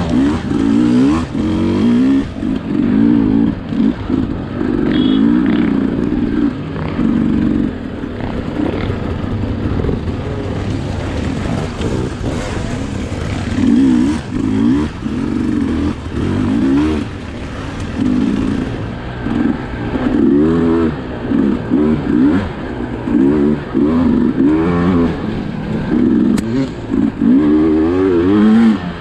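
Sherco SE300 single-cylinder two-stroke enduro motorcycle engine under load, its revs rising and falling over and over as the throttle is opened and closed.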